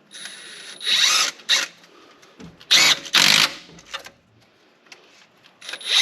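Handheld power tool spinning fasteners on in short spurts, in two bursts: one about a second in and one about three seconds in. It is refitting a part on a turbocharged truck engine.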